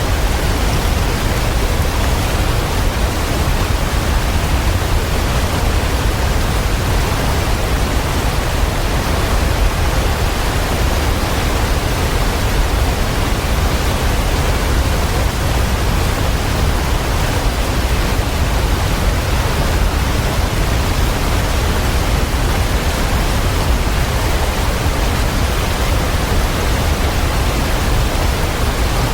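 Waterfall: a steady, unbroken rush of falling water with a deep low rumble beneath it.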